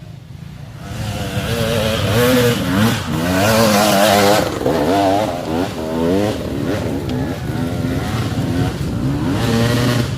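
Motocross dirt bike engines revving, their pitch rising and falling again and again as the throttle is worked. The sound swells about a second in and stays loud.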